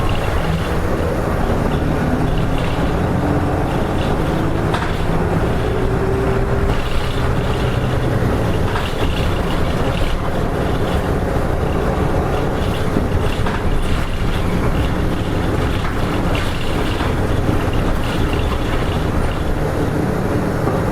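Diesel engine of a Hino Rainbow RM (KK-RM252GSN) bus heard from inside the cabin as it drives. The engine rises in pitch over the first several seconds, then runs steadily under road noise and the odd rattle.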